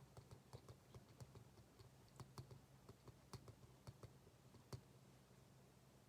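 Faint, irregular clicks and taps of desk work, several a second, over a low steady hum.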